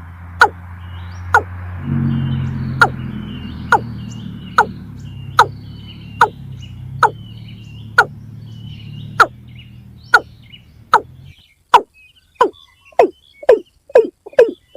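Water cock calling: a series of sharp, falling notes, about one a second, speeding up to about two a second near the end. A low steady hum underneath stops about eleven seconds in.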